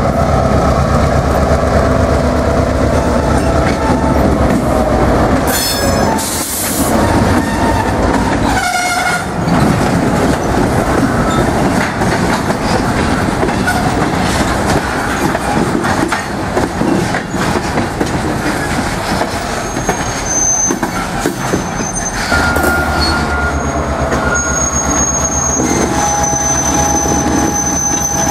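Diesel locomotive and its train passing close by: the engine's low rumble, then the cars rolling over the rails with a couple of loud clattering bursts, and a second locomotive rumble with high wheel squeal over the last several seconds.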